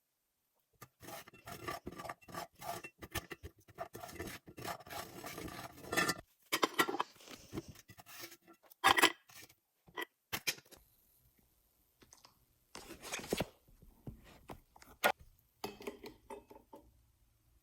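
Close-miked clicking, scraping and rubbing of utensils against a food container, dense for about ten seconds and then in sparser bursts.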